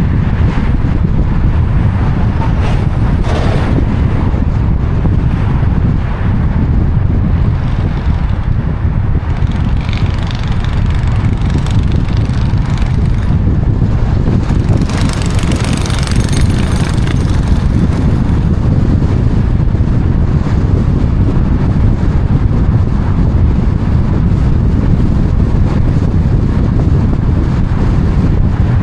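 Wind buffeting the microphone: a steady, loud low rumble, with brief louder rushes of hiss, the longest about 15 seconds in.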